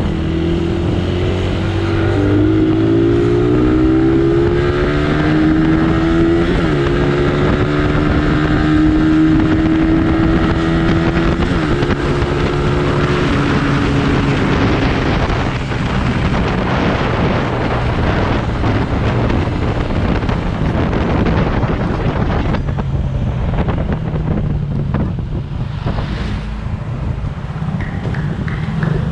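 Motorcycle engine running at road speed, heard from the bike itself: its pitch rises steadily for the first dozen seconds as it accelerates, then it is largely covered by wind and road rush as it cruises and slows.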